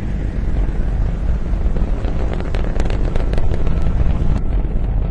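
Loud, steady low rumble with dense crackling from about two seconds in.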